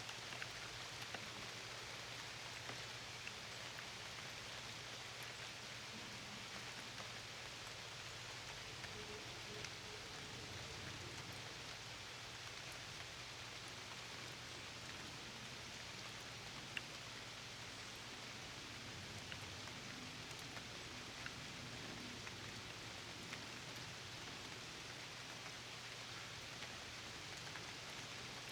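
Steady rain falling, with scattered individual drops ticking and one sharper tick about seventeen seconds in, over a faint low steady hum.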